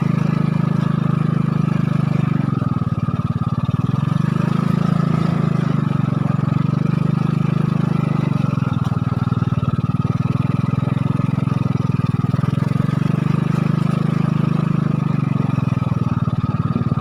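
An engine running steadily, its pitch dipping and rising again every four to five seconds.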